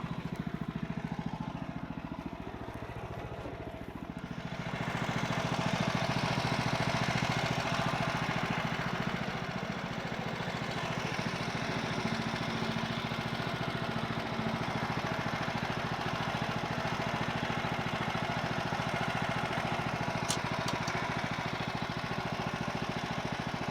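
Woodland Mills HM130 bandsaw mill's 14 HP Kohler engine running; about four seconds in the band blade enters the log and the engine settles into a steady cut under load. A couple of short sharp ticks come near the end.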